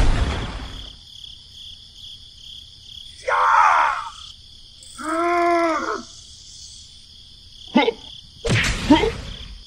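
Sound effects for a stop-motion toy scene over a steady chirring of crickets. A low rumble swells at the start, a short noisy burst comes about three seconds in, and a cartoon-style groaning voice rises and falls about five seconds in. Near the end come a sharp click and then a heavier clattering knock.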